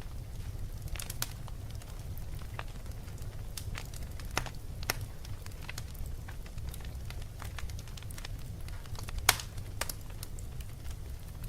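Wood fire crackling: a steady low rumble with scattered sharp pops and snaps, the loudest about nine seconds in.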